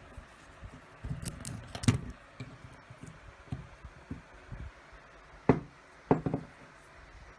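Parts of an electric fan's motor being handled during disassembly: light clinks and knocks, a cluster about one to two seconds in, then a sharp knock near the middle and a couple more shortly after.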